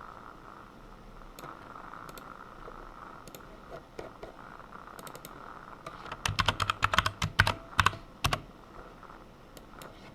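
Typing on a computer keyboard: scattered single key clicks, then a quick run of keystrokes about six seconds in, over a faint steady hum.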